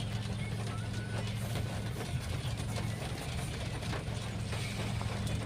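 Steady low hum of a car's engine and road noise heard from inside the cabin.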